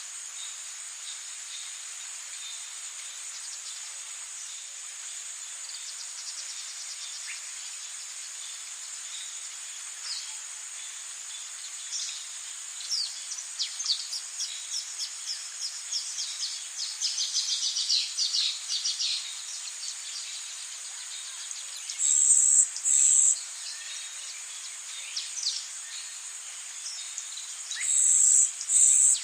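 Rainforest ambience: a steady high-pitched insect drone with bird calls over it, including a quick run of chirps in the middle. Two pairs of loud, high calls stand out, about two-thirds of the way in and again near the end.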